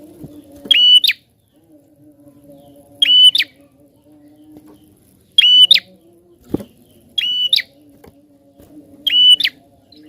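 Prinia (prenjak) calling: five short, loud calls spaced about two seconds apart, over a faint steady low hum.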